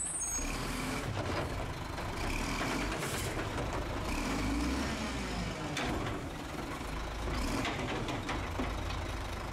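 Automated side-loader garbage truck running at the curb while its hydraulic arm grips a wheeled cart and lifts it up to dump into the hopper, over a steady low engine rumble.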